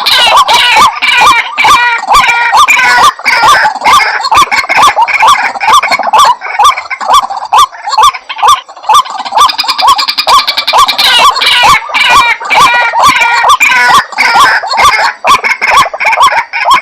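White-breasted waterhens calling: a loud, rapid, monotonous run of repeated croaking notes, several a second, that goes on with only brief breaks.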